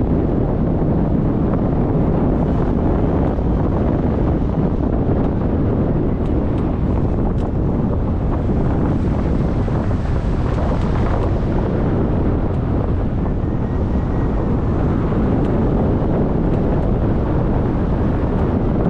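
Wind buffeting the microphone: a loud, steady rush with most of its weight low down.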